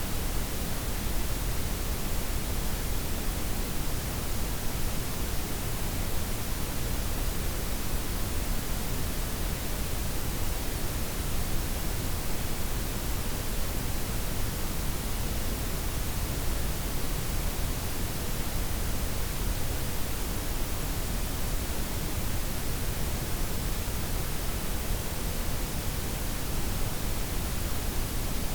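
Steady blended noise: a softened white noise layered with pink and brown noise, an even hiss with a deep low rumble beneath, unchanging throughout.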